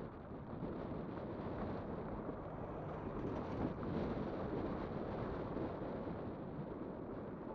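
Steady wind rushing over the microphone of a moving electric bike, a dense low rumble with no distinct events.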